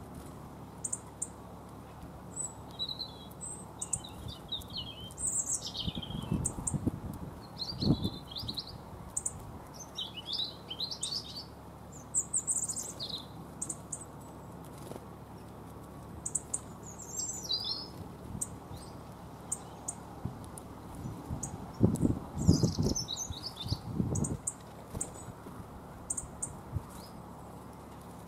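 Small garden songbirds chirping and calling at a bird feeder, short high notes coming in scattered bursts. Two spells of low thumps break in, a quarter of the way through and again about three quarters through.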